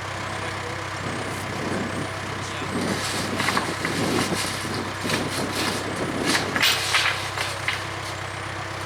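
Case 580K backhoe's diesel engine running steadily under hydraulic work. From about a second in until near the end, irregular scraping and clattering, like the bucket digging through dirt and gravel, rise over the engine and then stop.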